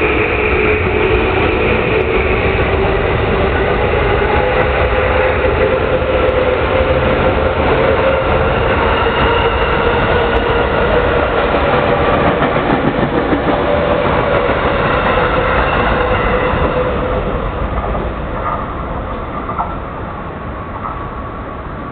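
Electric commuter train running past at close range: steady wheel and rail noise with a humming tone on top, dying away over the last few seconds as the train moves off.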